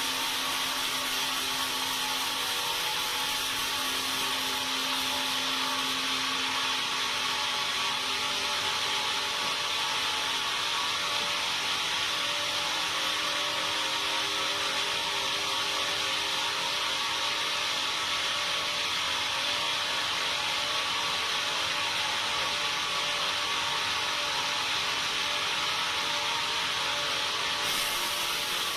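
Sawmill saw running steadily through timber, a constant hiss with a faint hum, unbroken throughout.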